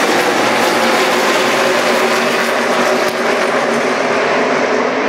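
A pack of NASCAR race trucks' V8 engines running at full racing speed, many engines blending into one dense, steady drone.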